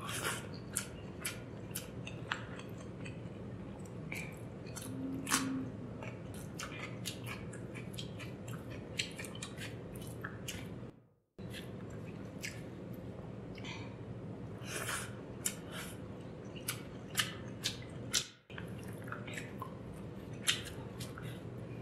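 Close-miked eating of rice and curry by hand: chewing and wet mouth clicks, with the squish of fingers working the rice through the gravy. The sound cuts out briefly twice.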